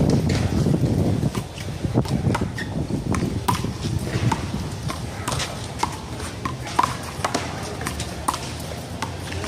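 A one-wall handball rally: sharp smacks of the small rubber ball off hands, the wall and the court, one or two a second, some with a short ring, along with quick footsteps.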